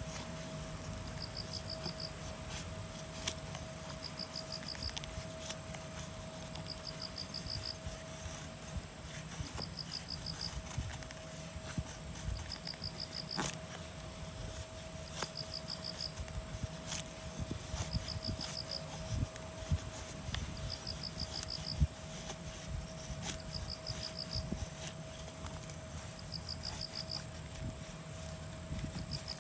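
A short, high trilled chirp, like a calling insect, repeats evenly about every two and a half seconds over scattered sharp clicks and a low background rumble.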